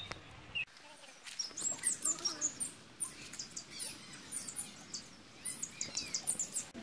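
Small birds chirping, with many short, high chirps coming quickly one after another, and faint voices in the background.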